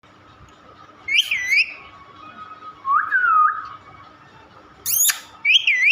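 Pet parrot whistling: four short swooping whistles that dip and rise in pitch, one of them a quick sharp chirp about five seconds in.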